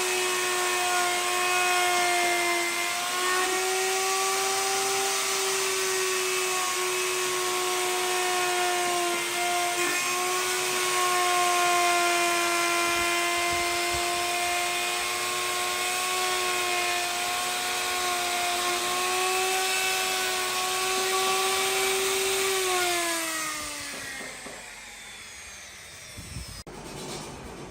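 A high-speed electric power tool motor runs at a steady high pitch, wavering slightly under load, then is switched off about 23 seconds in and spins down with a falling whine.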